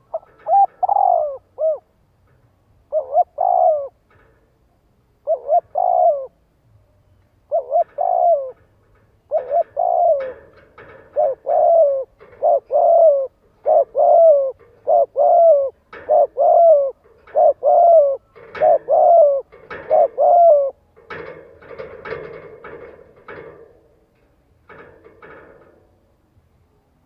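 Spotted dove cooing, a decoy call meant to lure wild doves. Short repeated coo phrases come a few seconds apart at first, then back to back from about nine seconds in. About twenty-one seconds in, the coos stop and a fainter, rougher sound follows.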